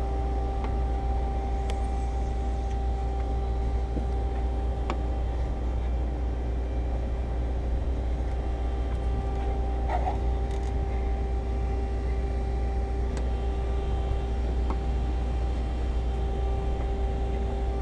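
Steady mechanical hum: a low rumble with a constant tone above it, and a few faint clicks.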